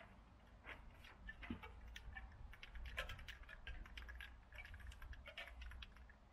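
Faint, irregular clicking and rustling over a low rumble: handling noise on the camera.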